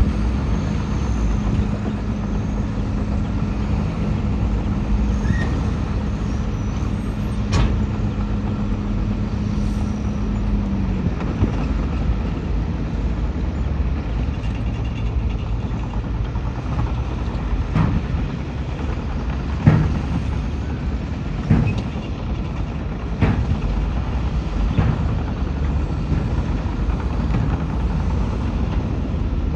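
Heavy diesel earthmoving machinery running steadily under load; its engine note drops noticeably about a third of the way through. Several sharp clanks follow in the second half.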